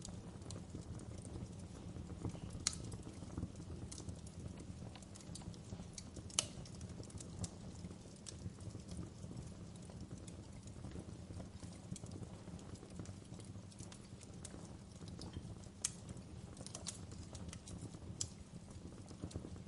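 Wood fire burning in a fireplace: a steady low rumble of flames with irregular sharp crackles and pops of burning logs, a few of them louder.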